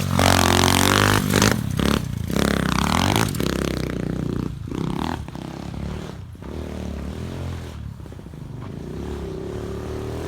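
SSR 125 pit bike's single-cylinder four-stroke engine being ridden, its revs rising and falling again and again through the stock exhaust, which is loud for a stock one. Several sharp knocks and rattles cut across the engine noise.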